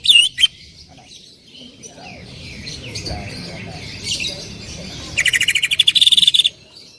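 Cucak ijo (green leafbird) singing loudly: a couple of sharp calls at the start, varied chirps and whistles, then a fast volley of repeated notes, about ten a second for just over a second, near the end. This is the rapid 'tembakan' (shooting) delivery that keepers prize in the species.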